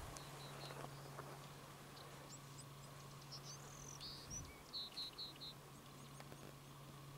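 Faint birdsong: scattered short, high chirps, with a quick run of four chirps about five seconds in, over a steady low hum.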